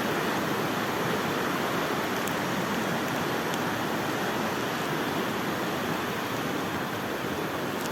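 Steady rush of a fast mountain river, an even sound of running water.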